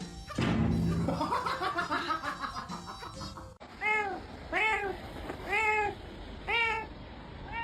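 A cat meowing: about five short meows, each rising and falling in pitch, about a second apart in the second half. Before them, up to an abrupt cut, a louder, denser stretch of sound.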